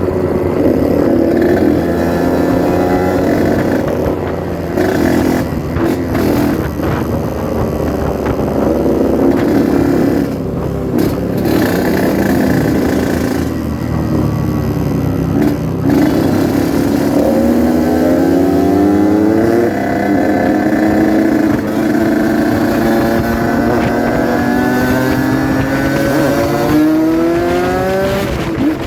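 Yamaha RX-King two-stroke motorcycle engine under way, its revs climbing and dropping repeatedly as the bike accelerates and changes gear, with two long rising sweeps in the last third.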